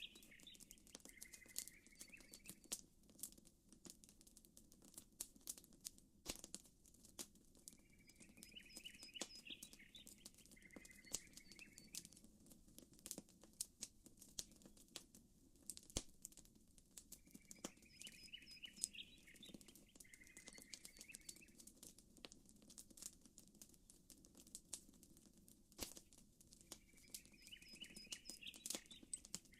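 Faint campfire crackling: irregular sharp pops and snaps of burning wood over a low steady hush. A short high chirping call recurs about every nine seconds.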